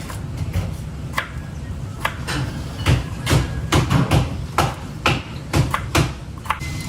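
Knife chopping on a cutting board: irregular sharp knocks, about two to three a second, over a steady low hum.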